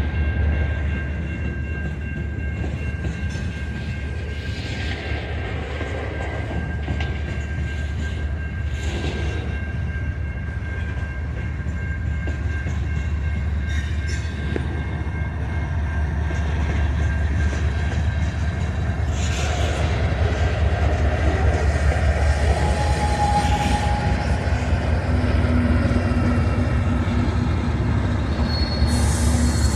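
A train running past: a continuous low rumble of rolling stock that grows a little louder, with a few short steady tones in the second half.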